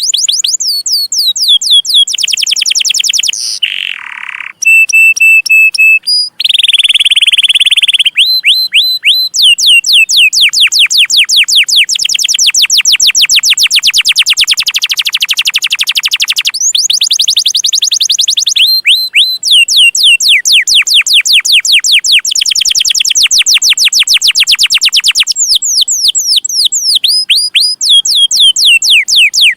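Domestic canary singing a long, loud run of rapid repeated chirps that each sweep downward in pitch (the 'cuit cuit' roll), broken by short pauses and a couple of held whistled notes early on.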